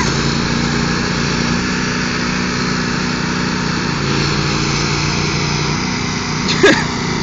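Two riding lawn tractor engines, a Craftsman's and a Troy-Bilt's, running steadily under load as one tractor drags the other, which is in neutral. The engine note drops a little about four seconds in.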